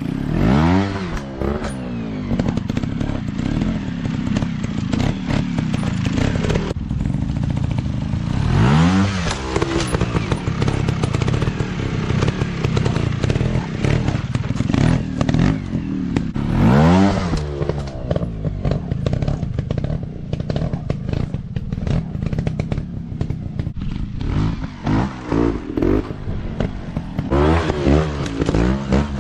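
Dirt bike engines running, with revs that rise and fall about once every eight seconds and several quicker revs near the end.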